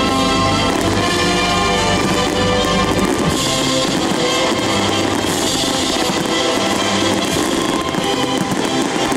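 Loud music playing over aerial fireworks bursting, the bursts thickening from about three seconds in.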